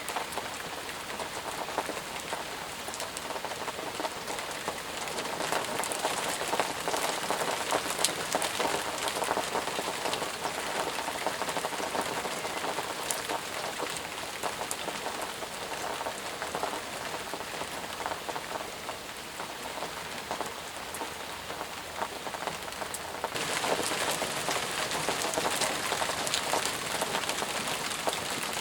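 Heavy rain falling steadily, a dense hiss with many close individual drops ticking. About 23 seconds in it abruptly becomes louder and brighter.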